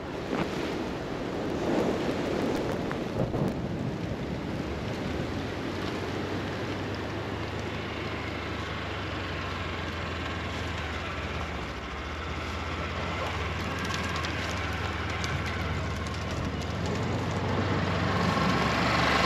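Polaris Ranger Northstar side-by-side's engine running with a steady low hum, under a steady rushing noise of wind and snow. The rushing is louder in the first few seconds.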